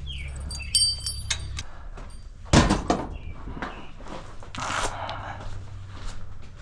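Metallic clinking with a brief ringing, then a door shut with one loud thud about two and a half seconds in, followed by rustling.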